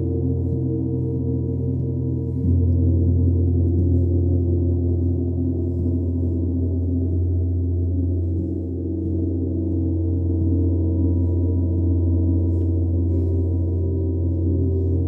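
Sound-bath instruments ringing: a deep, sustained hum with many steady overtones that swells louder about two and a half seconds in.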